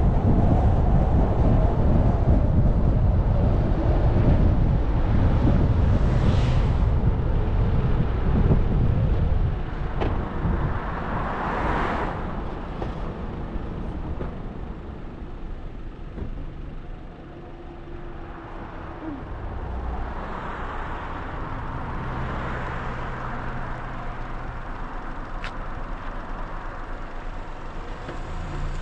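A car driving, with heavy road and wind rumble for the first nine seconds or so, then a quieter engine hum as it slows to low speed. There are two brief swells of noise, about six and twelve seconds in.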